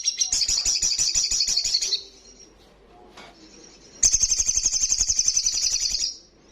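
Sunbird song: two fast, high, trilling phrases of about two seconds each, the second starting about four seconds in after a short pause.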